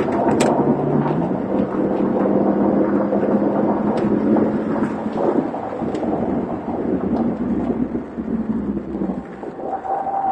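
Audi RS6 engine and road noise heard inside the cabin at speed on a racetrack, with a steady rumble of tyres and wind. The engine note rises about a second in, then holds steady until it eases near the end.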